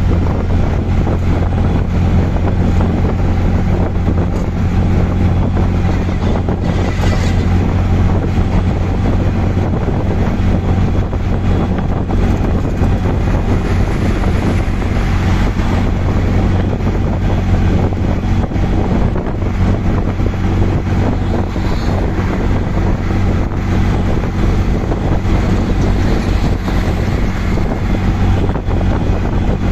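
Auto rickshaw engine running steadily during a ride, a constant low hum under road noise, with wind buffeting the microphone.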